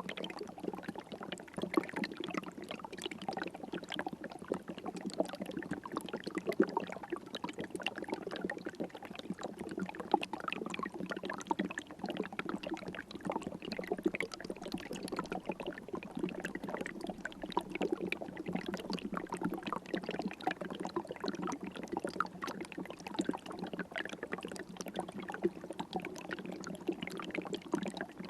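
River water flowing and trickling steadily, a continuous wash of small splashes and gurgles.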